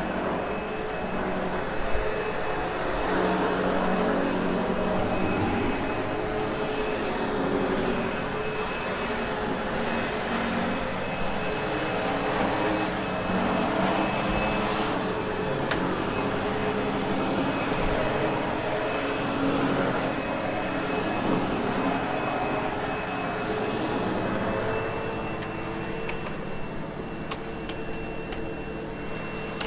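Sebo Automatic X8 upright vacuum running as it is pushed over carpet: a steady motor drone with a thin, constant high whine.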